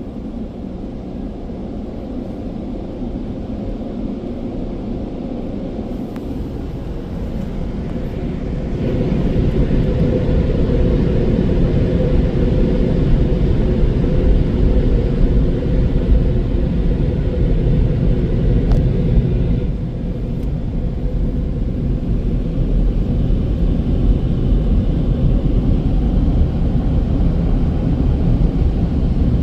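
Car wash air dryer blowing over the car with a steady rushing roar and low rumble, its top nozzle spinning fast. It grows louder about nine seconds in and dips briefly around twenty seconds.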